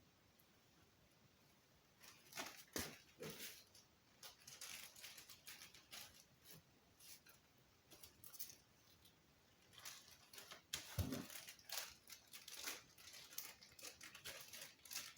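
Faint handling noises: scattered clicks, rustles and light knocks of objects being picked up and set down, with one louder knock about eleven seconds in. The first two seconds are near silence.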